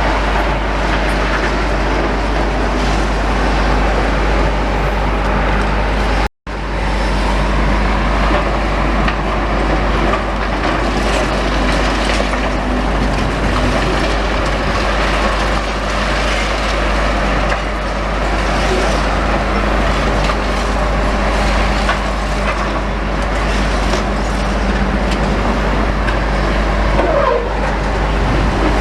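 Heavy demolition machinery running steadily, a dense mechanical din over a constant low engine hum. The sound cuts out for a moment about six seconds in.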